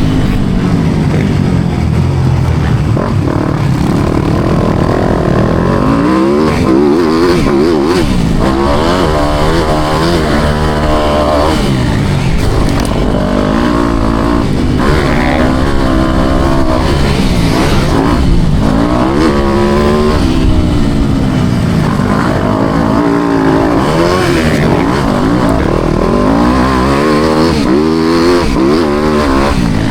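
Four-stroke motocross bike engine revving hard and backing off again and again, its pitch climbing and dropping repeatedly as it is ridden around a motocross track.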